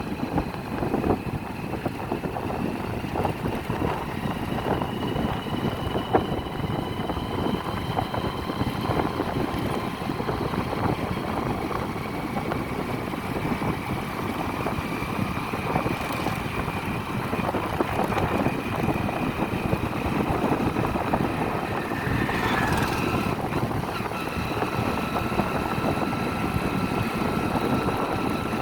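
Motorcycle running steadily while being ridden, engine and road noise with a faint steady whine. A short, sharper sound stands out about three-quarters of the way through.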